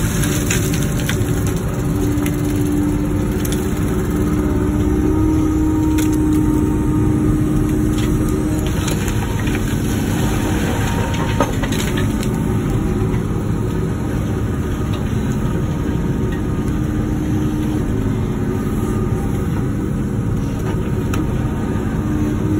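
Wacker Neuson ET145 excavator's diesel engine running steadily, with a droning tone that swells and fades at times and scattered light knocks and clicks.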